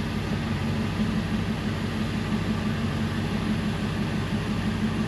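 Car engine running steadily at an even pitch, with a low pulsing exhaust note.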